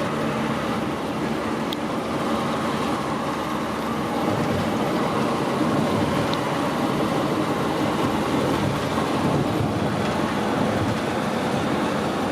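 Steady road and engine noise inside a moving campervan's cabin.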